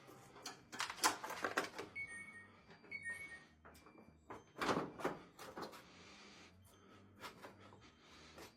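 Parts of a Samsung washing machine being handled and fitted during reassembly: irregular clattering knocks and scrapes, loudest about a second in and again about five seconds in, with a few short squeaks between.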